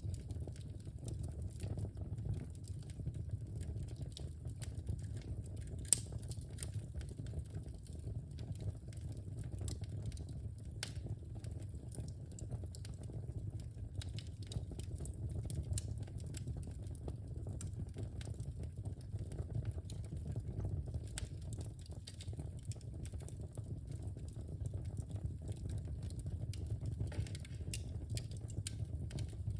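Wood fire burning in a fireplace: a steady low rumble of flames with frequent small crackles, and one sharper pop about six seconds in.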